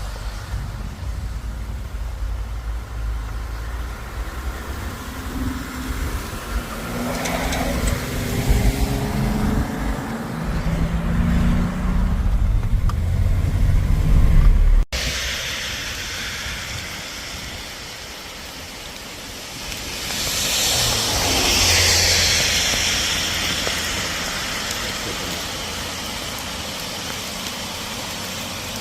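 Vehicle driving on a wet road: engine and tyre rumble, building over about fifteen seconds. It cuts off abruptly, then comes quieter rushing noise that swells for a few seconds around twenty seconds in.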